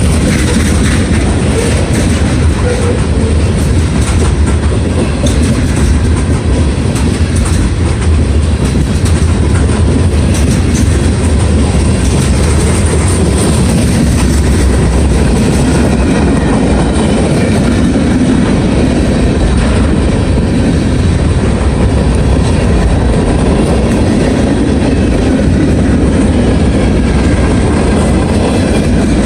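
Freight cars of a CSX mixed manifest train rolling past, a loud, steady noise of wheels on rail.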